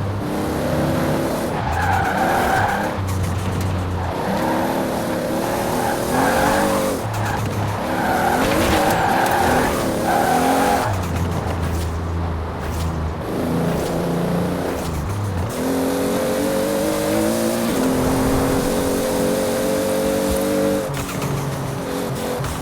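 Toyota Supra RZ's 2JZ-GTE straight-six with a large single turbo, revved over and over, its pitch climbing and dropping between short breaks. About two-thirds of the way in it is held at a steady high pitch for several seconds.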